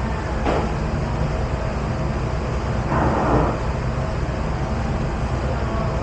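Steady rumble and hiss of dishpit machinery running, with a brief louder burst of hissing noise about three seconds in.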